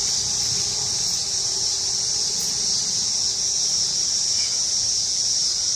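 A steady, high-pitched chorus of insects droning continuously.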